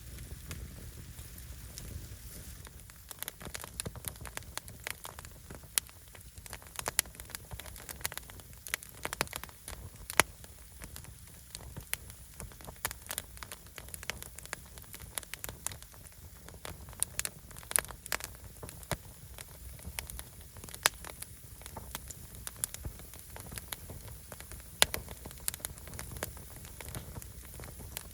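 Firewood burning, crackling with irregular sharp pops over a steady low rumble of the fire.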